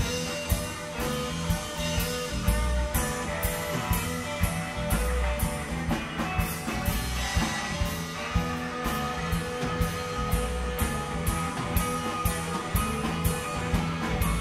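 Live rock band playing an instrumental jam: electric guitar over bass and a drum kit keeping a steady beat.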